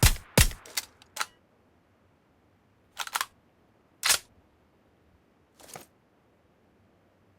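A quick run of sharp mechanical clicks in the first second or so, then three more single clicks spaced about a second apart, the last one softer.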